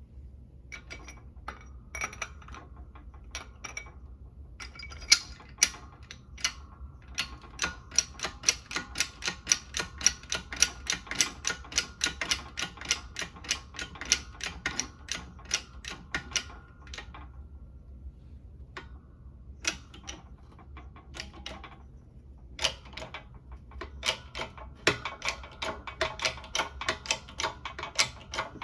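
Hand ratchet wrench clicking in quick, even runs of about three to four clicks a second, with a few short pauses between runs.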